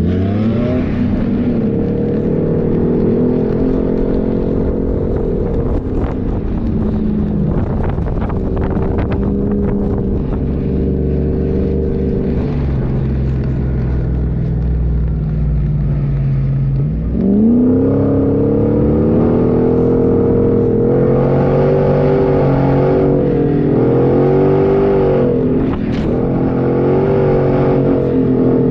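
A 4x4's engine working hard in desert sand, its revs climbing sharply near the start and again about two-thirds of the way in, then rising and falling repeatedly toward the end.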